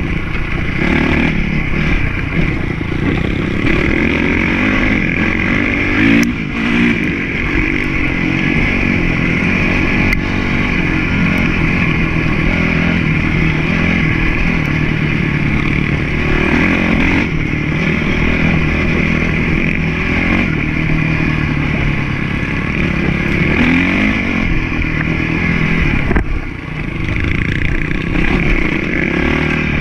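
Honda CRF450 motocross bike engine running hard, revving up and down over and over as it is ridden, with the throttle shut briefly about six seconds in and again near the end.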